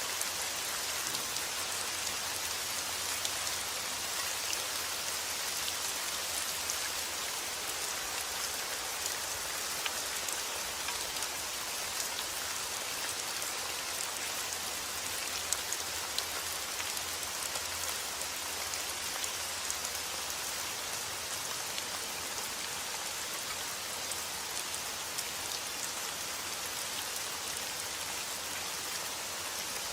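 Steady rain falling, an even hiss with many small drop ticks pattering on a surface. No thunder.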